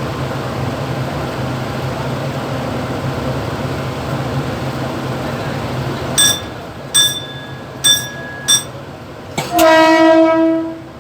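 Mumbai local EMU train running steadily, heard from the motorman's cab. About six seconds in come four short, high-pitched beeps, then a single loud horn blast lasting over a second.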